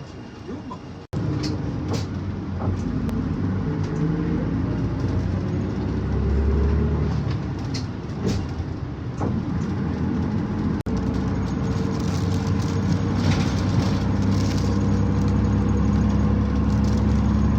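Bus engine running and road noise heard from inside a moving bus: a steady low rumble whose engine note slowly climbs in pitch at times. It breaks off abruptly twice, at about 1 s and 11 s, where the clips are cut together.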